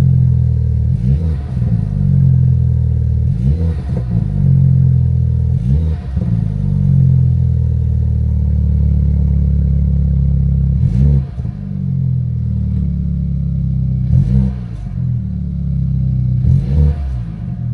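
BMW F32 engine with a newly fitted cold air intake idling, blipped six times. Each rev rises and falls quickly back to idle, with longer pauses in the middle, and the drive mode is set to eco.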